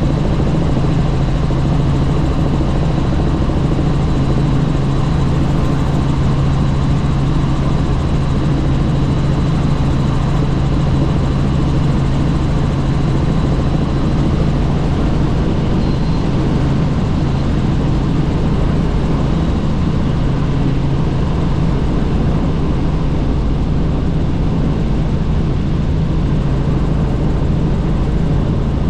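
Helicopter in flight, heard on board: a steady, loud drone of engine and rotor with a low hum, and a faint high whine through roughly the first half.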